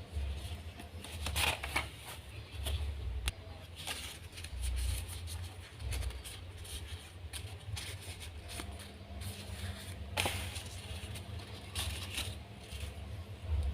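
Origami paper being handled and folded by hand: irregular rustling and crinkling, with sharper crackles of paper being creased now and then, over a steady low rumble.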